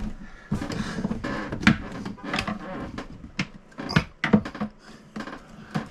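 Hands and tools working at RV toilet fittings, making a rapid, irregular series of sharp clicks and knocks with scraping and rustling in between.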